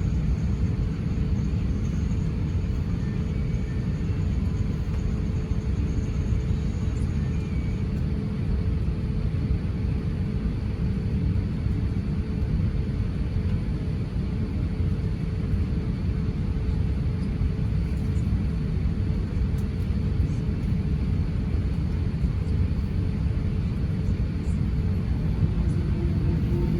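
Steady low rumble of an Airbus A350-900 in flight heard from inside the cabin: its Rolls-Royce Trent XWB engines and the rush of air, with a steady faint hum above it.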